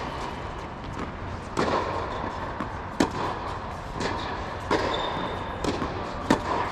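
Tennis balls struck with racquets: sharp pops every second or so, some louder than others.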